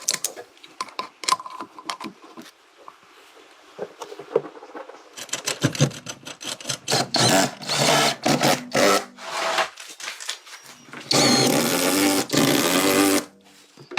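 Workshop tool noise: scattered clicks and knocks, then a power tool running in short bursts and a longer steady run near the end.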